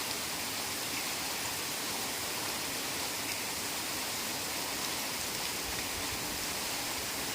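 Heavy rain falling steadily in a forest: an even, unbroken hiss with faint scattered drop ticks.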